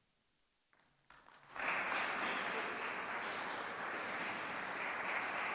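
Audience applauding steadily, starting about a second and a half in after a brief silence.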